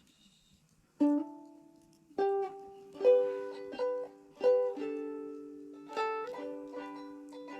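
Budget Lidl ukulele being played: a first chord rings out about a second in, followed by a slow pattern of strummed chords and plucked notes that ring on between strokes.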